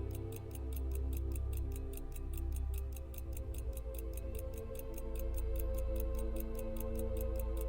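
Mechanical pocket watch movement ticking steadily at about five ticks a second, the beat of a running balance, over soft background music.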